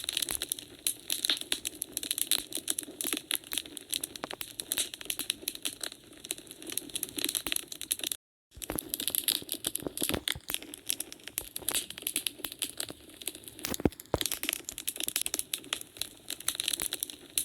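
Wood fire crackling in a fireplace: a dense run of irregular pops and snaps over a soft hiss. The sound cuts out completely for a moment about eight seconds in, then resumes.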